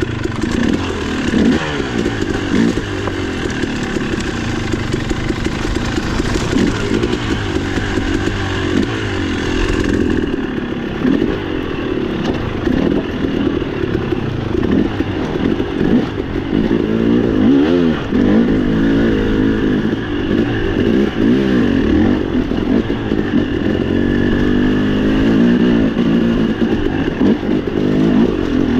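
Dirt bike engine under way on a trail, its revs rising and falling over and over as the throttle is worked.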